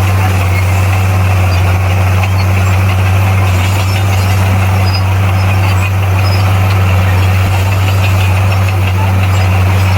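Komatsu D58P bulldozer's diesel engine running steadily with a low, even hum that holds the same pitch throughout.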